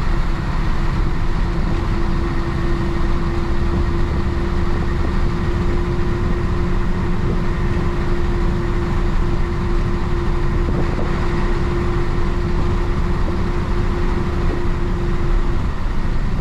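Isuzu BXD30 bonnet bus's DA640 diesel engine running steadily under way, a dense low rumble. A thin steady whine sits over it from about a second and a half in and stops shortly before the end.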